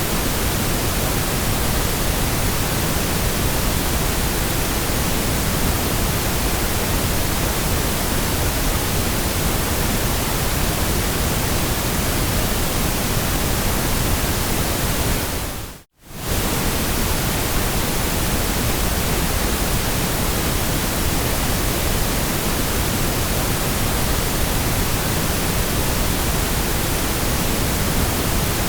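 Steady white noise: a continuous, even hiss with no tones or events in it. About sixteen seconds in it fades out over about a second to near silence and comes straight back.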